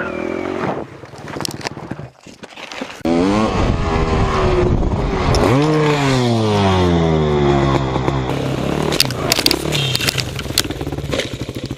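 Dirt bike engine revving high. It swoops up once more about six seconds in, then winds down to a steadier, lower running, with a few sharp knocks near the end.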